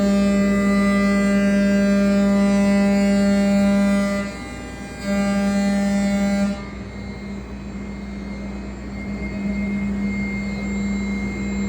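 CNC router running with a loud, steady pitched hum and many overtones. The hum drops away briefly about four seconds in, comes back, then gives way about six and a half seconds in to a quieter, even machine noise.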